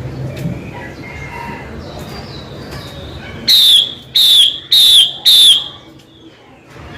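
Female Chinese hwamei calling: soft twittering chirps, then four loud whistled notes in quick succession, each slurring slightly downward.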